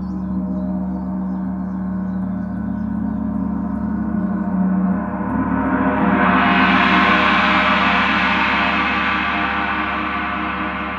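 Large gong ringing with a dense bed of sustained overtones. About six seconds in it swells louder and a bright shimmer spreads up into the high range, then slowly dies back.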